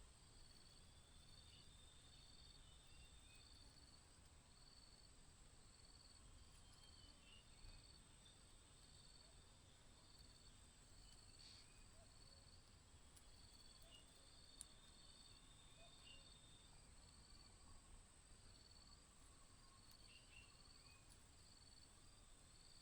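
Near silence with faint outdoor insect sound: a steady high trill and a short chirp repeating a little over once a second.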